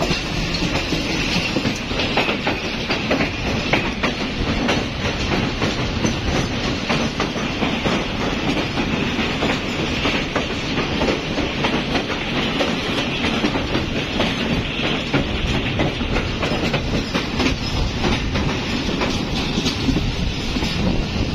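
Pakistan Railways passenger train running steadily on the track, heard from on board, its wheels clattering over rail joints with many short knocks.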